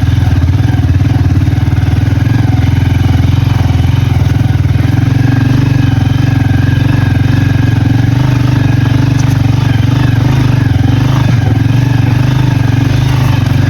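Motorcycle engine running steadily and loud, heard up close, with no change in pitch.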